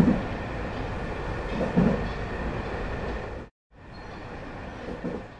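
Passenger train running on the rails, heard from inside the carriage: a steady rumble of the wheels with a few low thumps. It cuts out abruptly about three and a half seconds in, comes back quieter and fades away.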